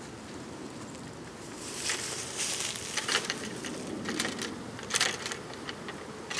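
Dry crunching and crackling in irregular bursts, starting about two seconds in, as the bee-occupied wooden squirrel box and its nest material are pulled apart.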